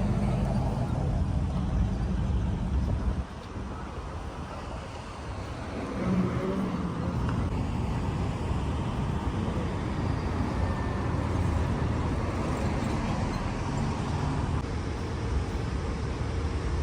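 Steady vehicle rumble, like traffic or a moving vehicle. It drops quieter about three seconds in and comes back up about six seconds in.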